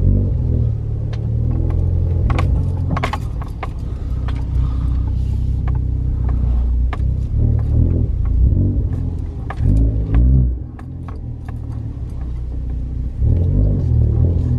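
2015 Ford Focus ST's turbocharged four-cylinder engine heard from inside the cabin, pulling the car under load on a freshly replaced clutch that now holds without slipping, with light rattling clicks in the cabin. It swells louder about ten seconds in, drops away suddenly, and rises again near the end.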